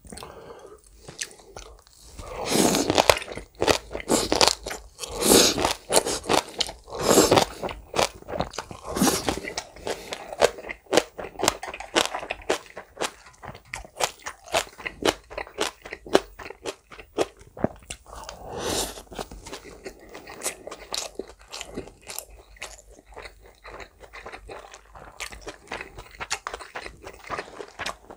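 Close-miked chewing of green onion kimchi: loud, wet crunching bites over the first several seconds and once more later, with quicker, quieter chewing clicks in between.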